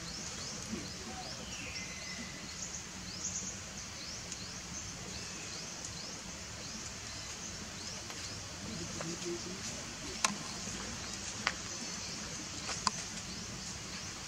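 Outdoor ambience of birds chirping, many short falling chirps repeating over a steady low hum, with three sharp clicks in the last few seconds.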